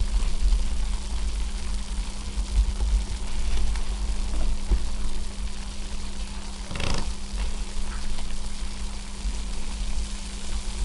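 Bath water moving and lapping in a tub, with a steady low hum and low rumble underneath; one louder splash about seven seconds in.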